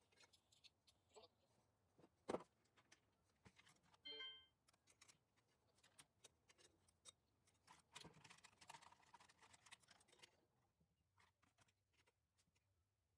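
Near silence with faint scattered clicks and taps of parts being handled, one sharper knock about two seconds in, a brief ringing tone about four seconds in, and a faint scraping rustle a little past the middle.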